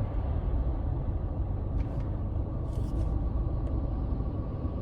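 Steady low rumble of a car on the move, heard from inside the cabin: engine and road noise, with a few faint clicks.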